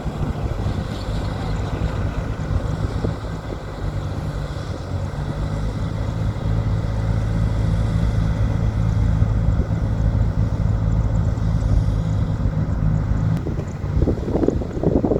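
Heavy diesel earthmoving machine running steadily under load with a deep, even engine hum. Near the end the steady hum drops away and uneven, clattering bursts take over.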